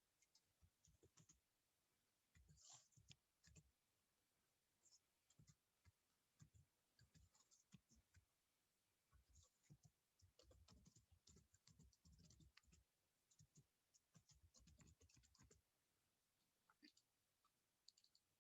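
Near silence with faint, scattered clicks and taps of a computer keyboard and mouse.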